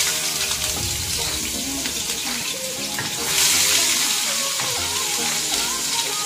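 Shredded ginger frying in hot oil in a wok, a loud steady sizzle that swells again about three seconds in, with a wooden spatula stirring through it.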